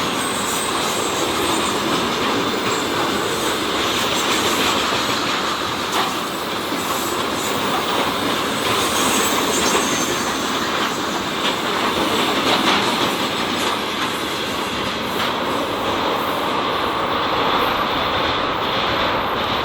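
Freight train wagons rolling past: a steady rumble of wheels on the rails with scattered clicks and a thin, high squeal that comes and goes.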